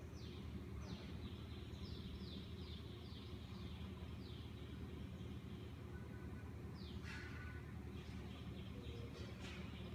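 Bird calls in the background: short high chirps that slide downward, about two a second for the first few seconds and again in a cluster near the end. A faint steady low hum runs underneath.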